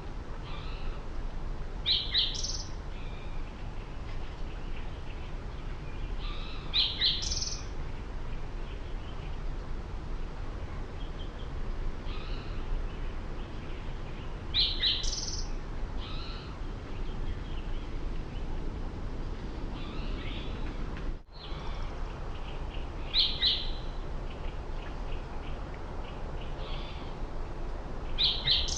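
Outdoor birdsong: a bird repeats a short, high chirping phrase five times, several seconds apart, with fainter calls between, over steady low background noise.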